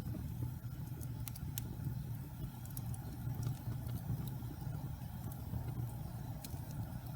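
Wood logs burning in a fireplace: a steady low rumble of the fire with scattered sharp crackles, a few every couple of seconds.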